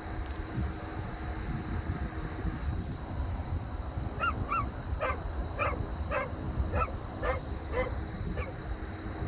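A dog barking, about nine barks in a row starting about four seconds in, over a steady low rumble. The dog is upset by the thunderstorm.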